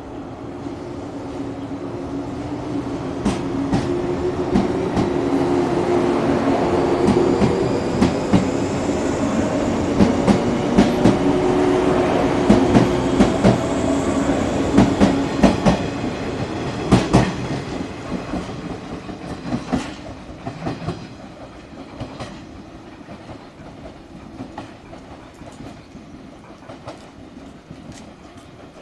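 JR 117-series electric train pulling out and gathering speed: a rising motor and gear hum with wheels clacking over rail joints and points. It grows loudest about halfway through, then fades as the train moves away.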